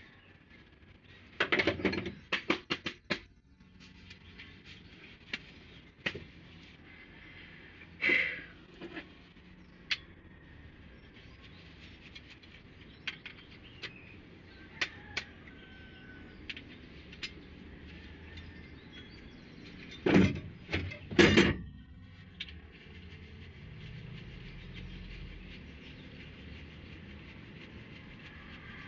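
Workshop clatter of hand tools and engine parts being handled: scattered single clinks, with louder bursts of clattering near the start, about eight seconds in, and around twenty seconds in.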